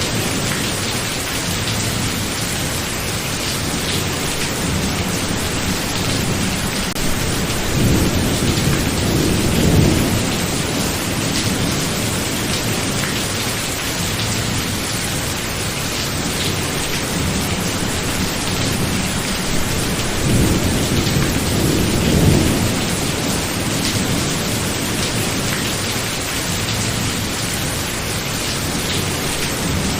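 Steady rain falling hard in a thunderstorm, with two low rolls of thunder, one about a third of the way in and another about two thirds of the way in.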